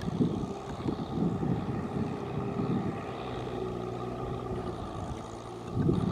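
Tractor engine running under load in mud and water, holding a steady note in the middle stretch with rougher, louder surges near the start and just before the end.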